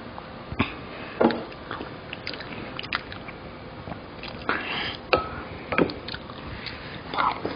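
Mukbang eating sounds close to the microphone: biting and chewing, heard as a series of short, sharp sounds spaced irregularly, the strongest about a second in and near the six-second mark.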